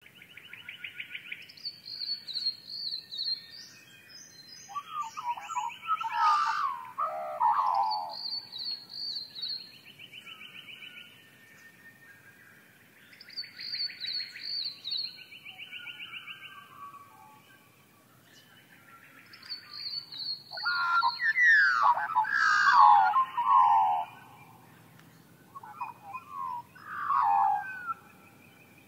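Wild birds calling and singing: repeated rapid trills alternate with bursts of quick, falling whistled notes, in loud spells with quieter gaps between.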